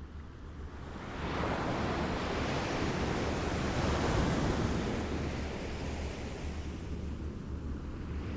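Small waves lapping at the shore: a wash swells about a second in, peaks in the middle and slowly eases off, over a steady low rumble.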